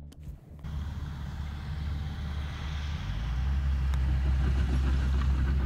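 A steady low rumble with a hiss above it, building up and getting louder about three seconds in, the kind of noise heard from inside a moving vehicle or from wind on the microphone. Background music cuts off at the very start.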